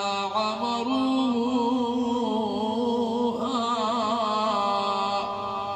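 A man reciting the Quran in slow, melodic tajweed style, drawing out long ornamented notes on one phrase. His voice rises in pitch about halfway through.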